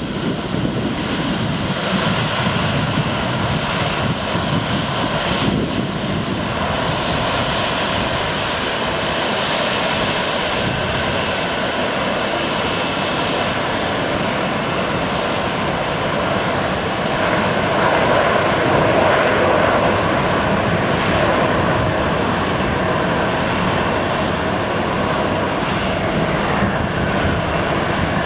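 Airliner engines running steadily: an even rushing noise with a faint whine that swells a little past the middle.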